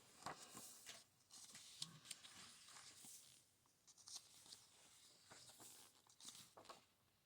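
Faint rustling and soft clicks of paper pages being handled and turned.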